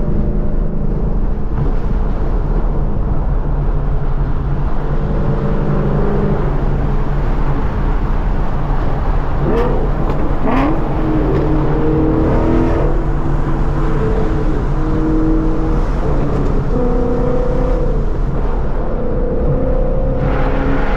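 2014 Ford Mustang GT's V8 engine and exhaust droning while driving, the engine note stepping up and down in pitch several times, with a short rising-and-falling sweep about halfway through.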